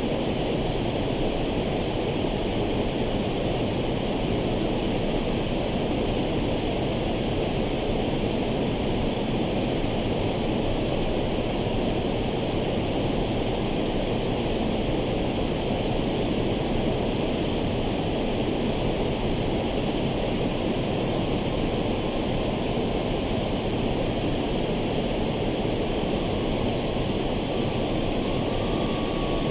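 Waterfall pouring heavily: a steady, unbroken rush of falling water.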